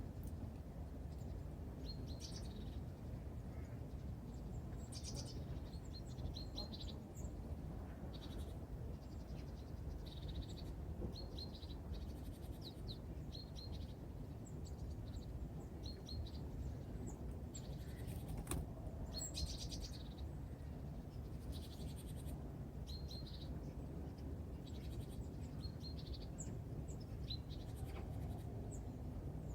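Small birds giving short, high chirps and calls, scattered irregularly throughout, over a steady low rumble.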